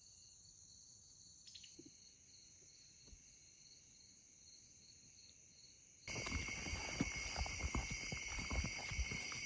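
Steady chorus of evening insects (crickets and similar) in woodland, faint at first. About six seconds in it cuts abruptly to a louder chorus with dense, irregular crackling and rustling.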